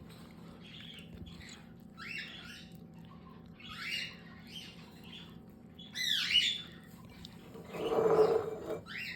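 Baby cockatiels making short, rising begging chirps during hand-feeding, several calls spread through the stretch. About eight seconds in comes a louder, coarser noisy burst.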